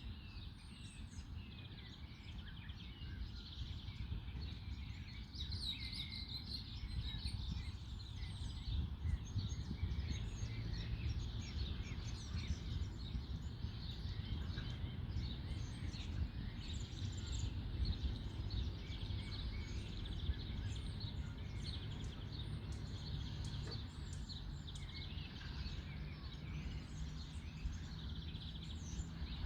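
Several songbirds chirping and trilling in trees, many short calls overlapping, over a steady low rumble of distant background noise.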